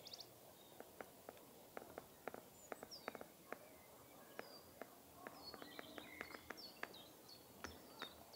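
Near silence with faint bird chirps: short high calls, coming more often in the second half. Scattered faint clicks can also be heard.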